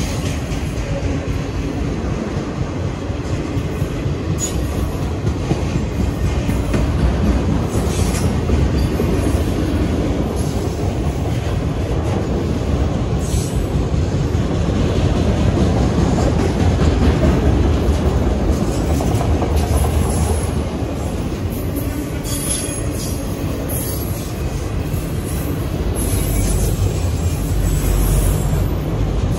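Autorack freight cars rolling steadily past: steel wheels running on the rails with clattering over the joints and brief high-pitched wheel squeals now and then, more of them near the end.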